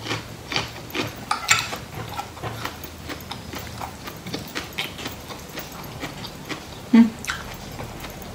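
Close-miked chewing: irregular small crunches, smacks and clicks of a mouthful of food being eaten, with one louder short sound about seven seconds in.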